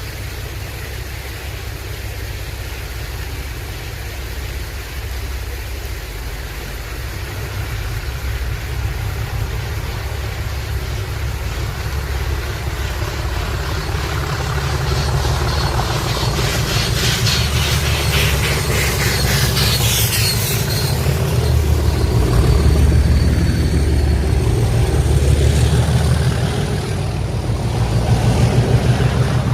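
Heritage railway train drawing near, growing steadily louder, with a heavy pulsing low rumble and a spell of dense clatter about two thirds of the way through.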